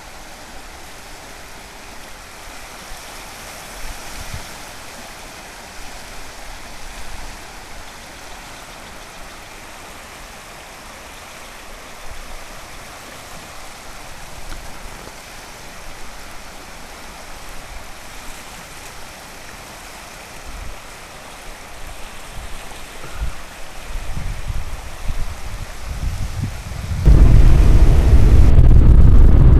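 Steady rushing of the flooded Calapooia River, an even wash of water noise. Low rumbles build up a few seconds before the end, then a sudden, much louder low rumble drowns out the water.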